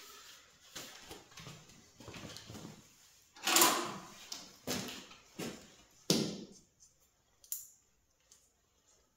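Stainless steel sheet being handled and bent by hand: a series of irregular metallic knocks and clatters, the loudest about three and a half seconds in, then a few small ticks.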